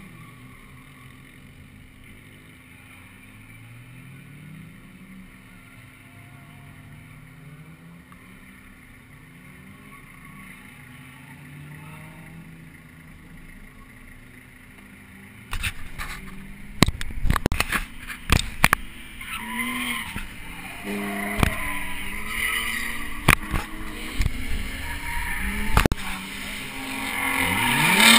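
Car engines revving at a distance, their pitch rising and falling, with tyres squealing. About halfway through, loud knocks and bumps start up close to the microphone, the camera being handled, while the engine sound grows louder and rises in pitch near the end.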